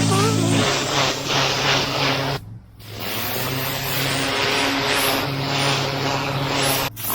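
Pressure washer running: a steady motor drone under the hiss of the water jet on a brick wall. It cuts out sharply for about half a second, about two and a half seconds in, and briefly again near the end.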